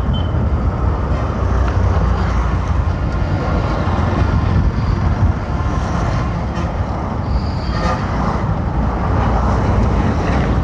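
Steady rumble of a moving vehicle: engine and road noise, deepest in the bass, with no change in pace.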